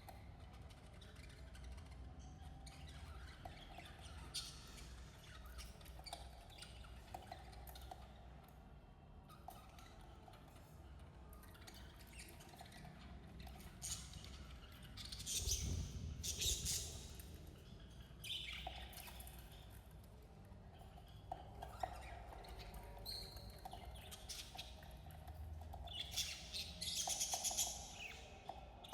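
Budgerigars chirping and chattering, with louder bursts of busy chatter about halfway through and again near the end.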